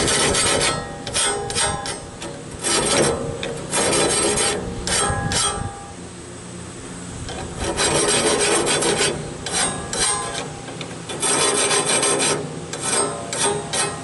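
Air-powered grinder sharpening the teeth of a Wood-Mizer band sawmill blade, one tooth at a time, in a string of short grinding passes. There is a longer pause about halfway through and a low steady hum underneath.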